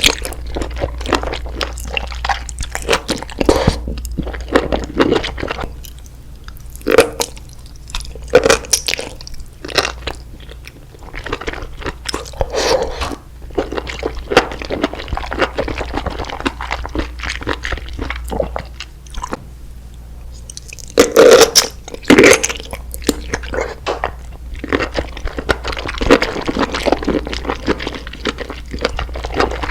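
Close-miked eating sounds: a person biting and chewing crunchy food, with irregular sharp crunches and a pair of loud bites a little past the middle.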